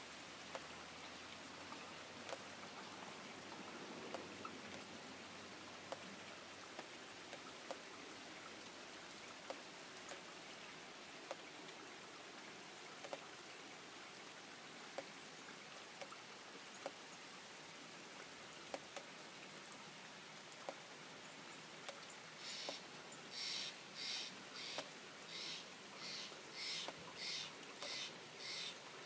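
Steady rain falling, with scattered sharp drips. About twenty-two seconds in, a bird begins calling over and over, about three short high calls every two seconds, louder than the rain.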